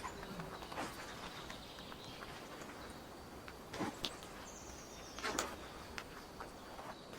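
A few footsteps on the forest floor, with short crackles at an uneven pace, over a soft steady outdoor hiss. A brief high bird note is held for under a second about four and a half seconds in.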